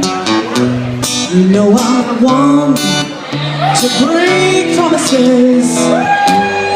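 Acoustic guitar strummed in a steady rhythm, with a voice singing over it from about a second in.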